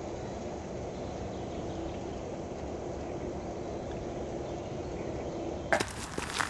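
Steady outdoor background noise, like wind or distant running water, with a faint low hum. Near the end it cuts to sharp clicks and rustling, like footsteps moving through brush.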